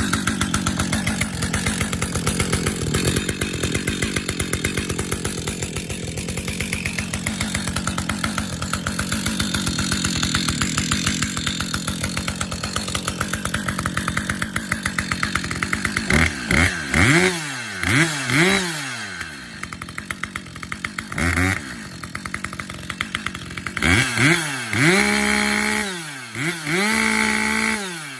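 Husqvarna 562XP two-stroke chainsaw running steadily, then revved in a series of quick throttle blips from about halfway through. Near the end it is twice held briefly at high revs before dropping back.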